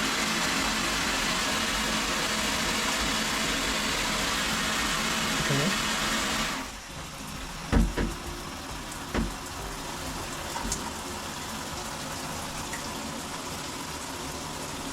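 Water spraying from a newly installed shower head, a steady hiss that drops off abruptly and becomes much quieter about six and a half seconds in. A couple of short knocks follow soon after.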